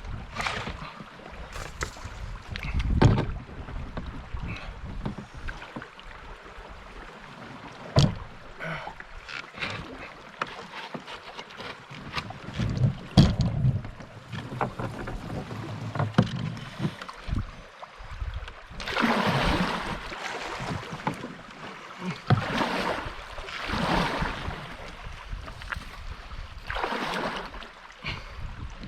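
Water sloshing and splashing in and around a swamped small boat as it is being emptied while still afloat, with several sharp knocks against the hull and wind rumbling on the microphone.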